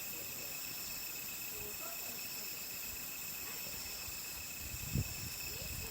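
Steady chorus of crickets, held as several even, high-pitched tones, with a single low thump about five seconds in.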